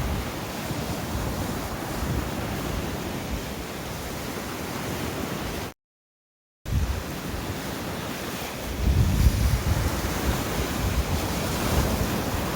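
Sea waves breaking on the shore in rough weather, with wind buffeting the microphone. The sound drops out completely for under a second just before the middle, and the low wind rumble grows heavier in the last third.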